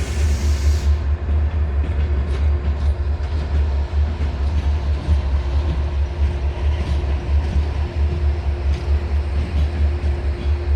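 Train in a railway station: a steady low rumble with a constant hum, and a high hiss that fades out about a second in.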